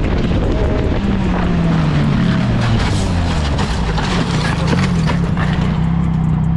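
Motorcycle engine running under heavy wind noise; its note eases down a little over the first couple of seconds, then holds steady.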